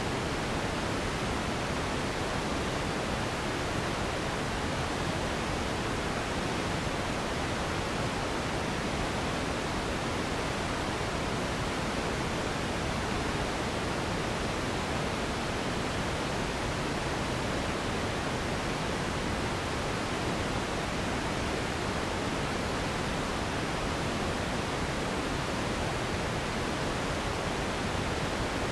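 Steady pink noise: an even, unchanging hiss across the whole range, a little softer in the highs, with nothing else in it.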